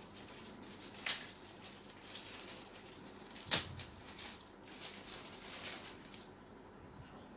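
Handling noises from unboxing a barbecue grill: light rustling with two sharp knocks, the louder one about three and a half seconds in.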